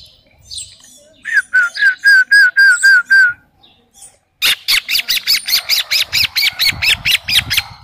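Bird calling in two runs of repeated notes: first about seven even, slightly falling whistled notes, then after a short pause a faster run of sharp notes, about five a second.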